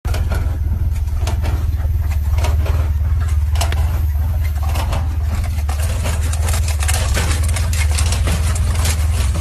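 Car engine running with a loud, steady low drone and fast, irregular clattering over it.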